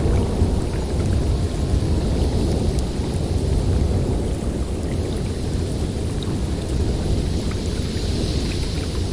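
Snowstorm wind blowing steadily, heavy in the low end, with faint scattered ticks.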